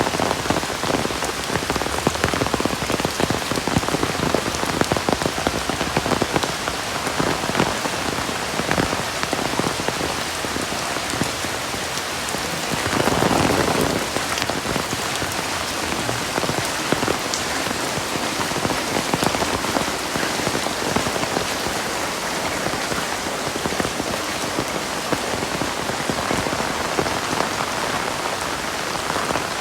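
Heavy rain falling steadily, with many close drops striking hard surfaces. There is a brief louder swell about halfway through.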